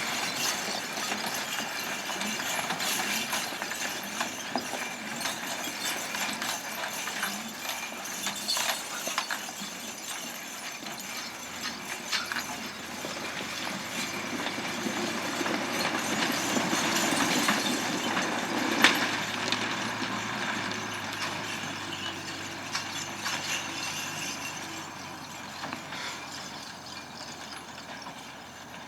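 Road vehicle noise with many irregular clicks and rattles. It grows louder to a peak about two-thirds of the way through, then fades, as a vehicle passes.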